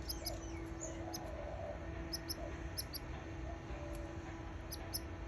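Baby canaries peeping: short, very high squeaks in small clusters of two or three, every second or so, over a steady low hum.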